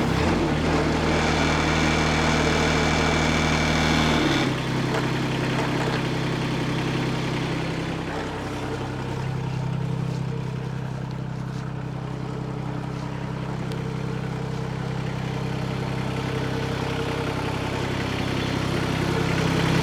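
Hightop HT20 Pro mini excavator engine running steadily, with a high steady whine over it for the first four seconds that stops abruptly; the engine's note shifts lower about eight seconds in.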